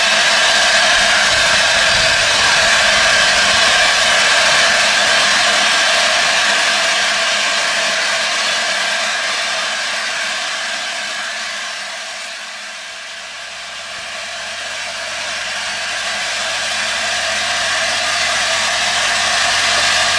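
Steam locomotive giving off a steady, loud hiss of steam. The hiss fades for a few seconds past the middle and then builds again.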